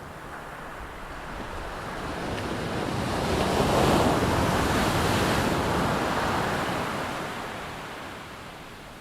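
PT-17 Stearman biplane with its radial engine passing by: a rushing engine-and-wind noise that swells to a peak about four seconds in, then fades away.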